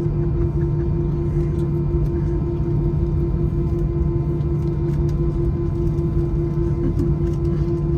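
Steady drone inside an Airbus A319-111 passenger cabin on the ground, with the engines running at low power and cabin air running. It holds two steady low hums, with a few faint ticks and rattles.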